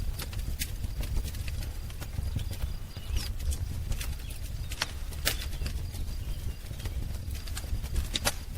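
Wood fire crackling: irregular sharp pops and snaps over a low, steady rumble of flame, with a few faint, short bird chirps.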